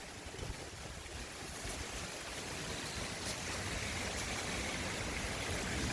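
Rainstorm: heavy rain falling as a steady hiss that slowly builds, with a few sharp drop ticks.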